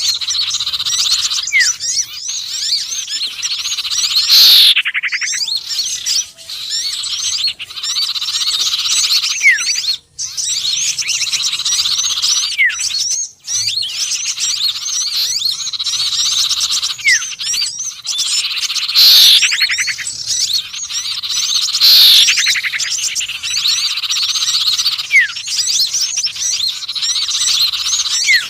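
Recorded bird-lure track mixing the songs and calls of small songbirds (sirtu, konin and sepah raja): a dense, steady stream of high chirps and trills. Short rising chirps repeat, and loud falling sweeps come now and then, twice close together near the end.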